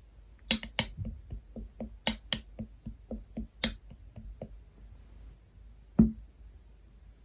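Cream slime being pressed and worked by hand, giving a run of sharp clicks and small pops, about four a second, then a single duller thud about six seconds in.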